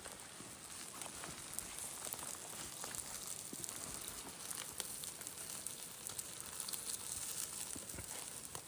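Köfte (meatballs) sizzling over a fire: a steady hiss with scattered small crackles and pops.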